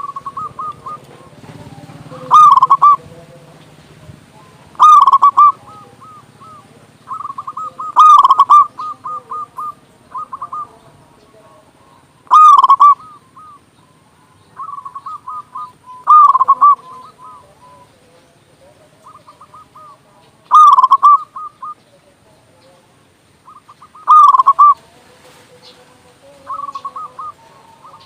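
Zebra dove (perkutut) cooing with a big voice: a loud phrase of coos around every four seconds, each followed by quieter trailing coo notes.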